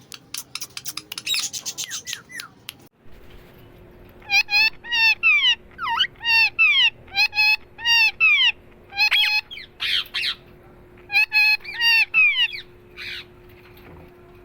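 Parrot giving a rapid clicking chatter, then after an abrupt cut a long series of loud, shrill squawks, each sliding down in pitch, over about eight seconds, with a faint steady hum underneath.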